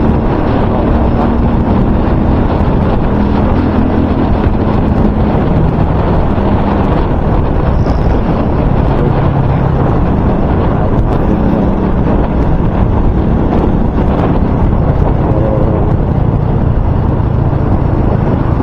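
Loud, steady wind buffeting on the microphone, which still comes through although the microphone is wrapped in electrical tape. A low vehicle hum sits underneath.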